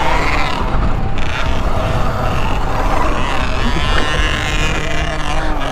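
Electric dirt bike being ridden hard on the track, its motor whine rising and falling with the throttle over a steady low rushing noise.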